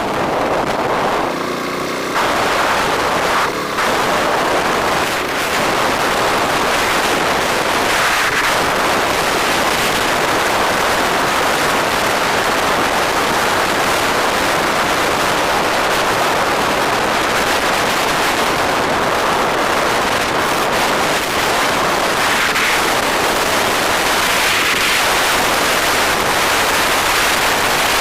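Steady loud rush of wind buffeting the microphone of a camera on a moving bike, with the noise of the bike and passing road traffic under it.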